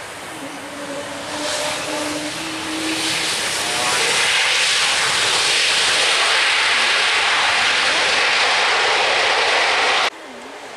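Jet airliner engines growing louder over about four seconds, then loud and steady, cut off suddenly about ten seconds in.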